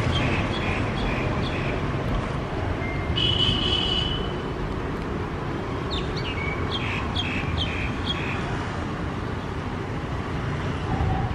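Steady low rumble of a passenger train's coaches rolling slowly away along the track. Over it a bird chirps: a quick run of short chirps at the start, a single held whistled note about three seconds in, and another run of chirps around six to eight seconds.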